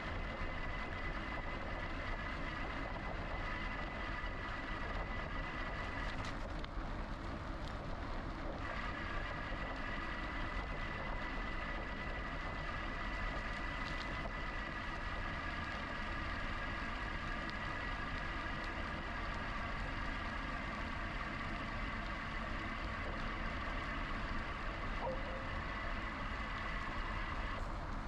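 GoCycle GX electric bike riding along: a steady high whine from the motor over a low rumble of tyres and wind. The whine drops out for about two seconds early on, then returns and stops near the end.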